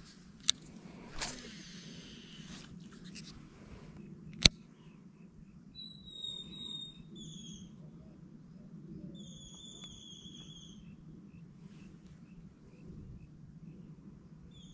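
A bird whistles two drawn-out, even-pitched calls about six and nine seconds in, over a steady low hum. A sharp click comes about half a second in and a louder one around four and a half seconds, with a short hiss between them.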